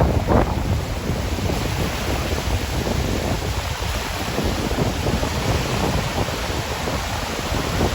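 Rough sea surf breaking and washing in, with wind buffeting the microphone in a steady low rumble.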